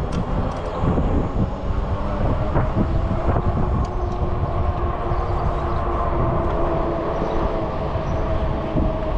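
Steady ride noise of a bike-mounted camera on a moving e-bike: low wind and road rumble with a steady hum over it.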